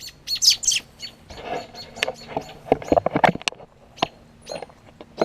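Birds chirping in short sharp calls, the strongest about half a second in, mixed with a run of clicks and rustling knocks midway.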